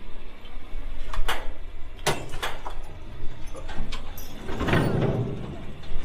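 Low mechanical rumble with several sharp metallic knocks and a scraping rush about three-quarters of the way through, as the heavy steel-wheeled antique tractor is moved through a tight opening.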